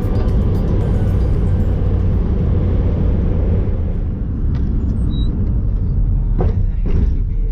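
Steady low rumble of a road vehicle running, with two short knocks near the end.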